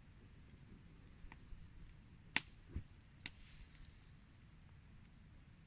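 A few scattered sharp clicks over a faint low hum, the loudest about two and a half seconds in, with a soft low thump just after it.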